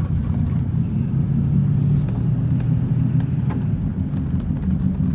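Ford 4.6-litre V8 car on the move, heard from inside the cabin as a steady low engine and road rumble.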